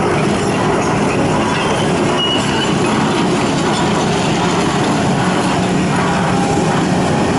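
Large excavator's diesel engine running steadily, a constant heavy machine noise with no sharp knocks or pauses.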